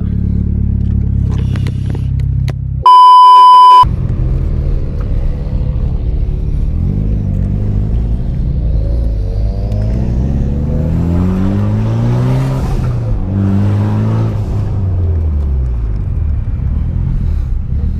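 Car engine running steadily, then cut by a loud steady beep tone of just under a second about three seconds in. After that the engine revs rise and fall again and again as the car accelerates through the gears.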